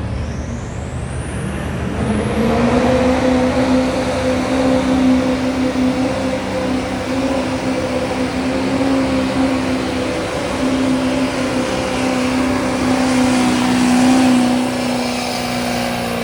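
Street stock diesel pickup truck pulling the sled at full throttle. A high whine rises over the first two seconds as it spools up. The engine then holds a steady high-revving pitch for the rest of the pull and drops off sharply near the end as the truck stops.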